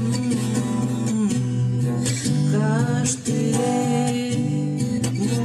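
Acoustic guitar accompaniment with a woman singing, part of an original song's chorus.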